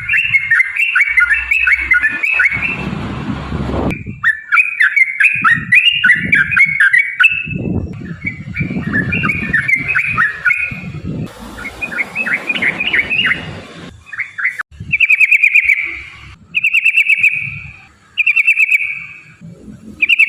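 Yellow-vented bulbul (trucukan) singing a long, rapid, bubbling song, phrase after phrase. Near the end it gives several shorter, dense trills with brief pauses between them. Some low rumbling background noise runs underneath.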